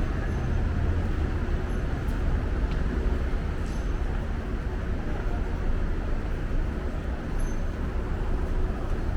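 City street ambience: a steady low rumble of traffic, with a few faint short high chirps.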